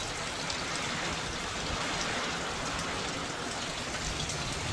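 Heavy rain falling steadily in a severe thunderstorm, an even hiss of rain on surfaces with scattered drop ticks.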